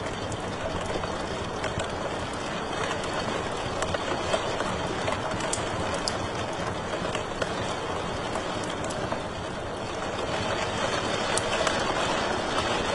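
Wood fire crackling in a fireplace: a steady rushing bed of noise with frequent small, sharp pops and snaps scattered through it.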